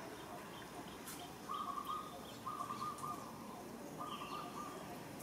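A bird calling three times, each call a short, level-pitched trill about half a second long, roughly a second apart.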